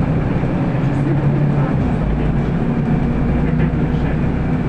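City bus driving between stops, heard from inside the passenger cabin: a steady low engine drone with road and rattle noise.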